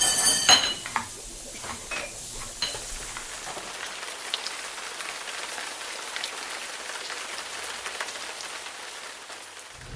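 Kitchen sounds: utensils clinking against a pan a few times in the first couple of seconds, then a steady sizzling hiss of food frying with small crackles, which cuts off just before the end.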